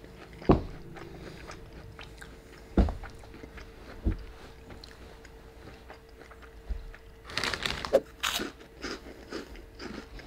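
A person chewing a mouthful of food close to the microphone, with a few sharp soft thumps in the first few seconds and a louder crackly crunching stretch a little past seven seconds.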